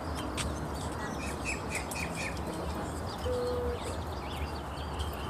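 Wild birds chirping and calling, with a run of four short, quick, evenly spaced notes about a second in and a brief held note a little past the middle, over a steady low rumble.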